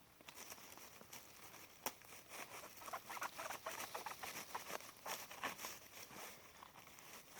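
Faint irregular rustling and light crackles, a run of small scattered clicks that is busiest in the middle.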